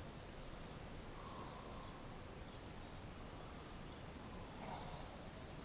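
Faint steady background noise with a few short, high bird chirps scattered through it.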